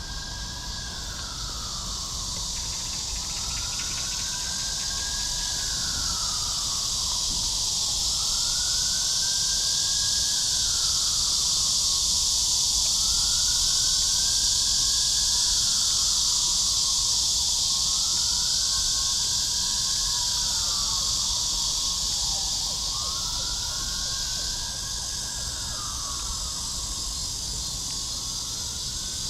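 A loud, steady chorus of cicadas buzzing, which swells toward the middle and eases off again. Under it, a fainter siren wails up and down about every three seconds.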